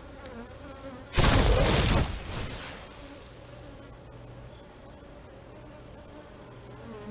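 Honey bees buzzing steadily around an open hive frame crowded with bees. About a second in, a brief loud rush of noise lasts under a second.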